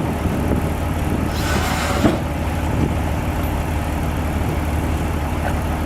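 A large diesel engine of heavy earthmoving equipment running steadily, with a brief hiss about a second and a half in.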